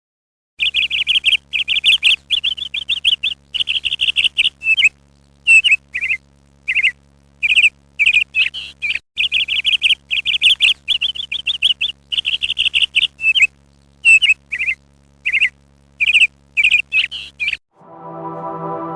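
A small bird chirping and trilling in quick, high bursts with short gaps between them. Near the end the bird sounds cut off and keyboard music begins.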